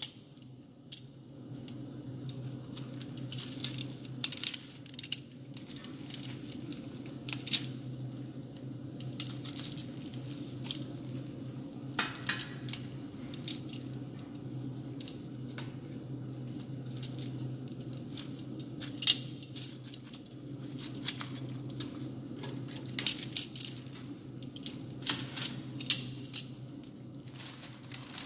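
Metal utensils and dishes clinking and tapping again and again as food is prepared, with pauses between the bursts. A steady low hum runs underneath.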